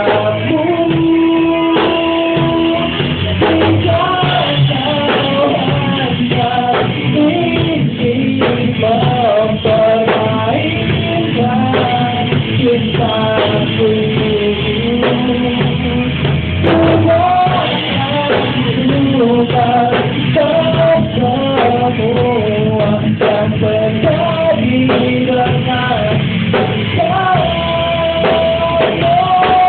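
Rock band playing a song on drum kit, bass and electric guitar, with a melodic lead line over them, dull-sounding from a low-quality recording.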